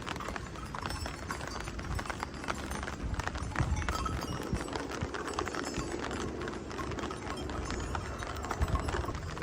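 Rain falling, heard as many irregular drips and taps, over a steady low rumble.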